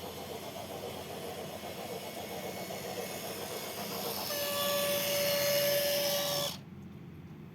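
A train running, with a single-pitched whistle sounding for about two seconds over a growing hiss, cut off suddenly.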